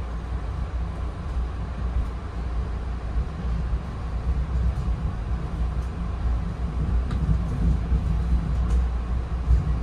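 Running noise inside a Bombardier Comet IIM passenger coach with the train moving along the line: a steady low rumble of wheels on rail, with a couple of faint clicks in the second half.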